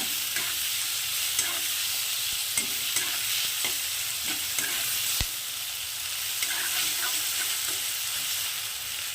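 Sliced onions frying in hot mustard oil in a kadai: a steady sizzle, with a spatula scraping and knocking against the pan every second or so.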